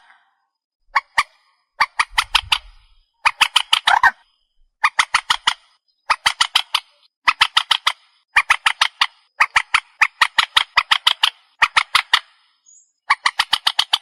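Trích ré bird calling: bursts of rapid harsh notes, about ten a second, each burst lasting under a second. The bursts repeat about once a second with short silent gaps, as a looped lure call.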